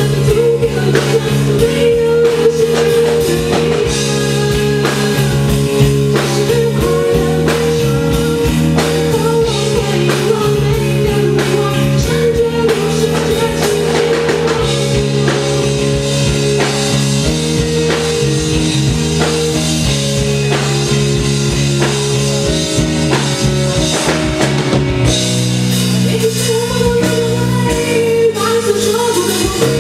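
A rock band playing live and loud, with a drum kit under sustained melodic lines, in a passage without clear lyrics.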